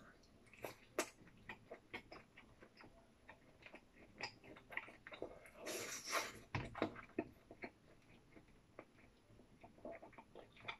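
A person chewing food with the mouth closed: faint, irregular mouth and chewing noises with small clicks, and a brief louder breathy noise about six seconds in.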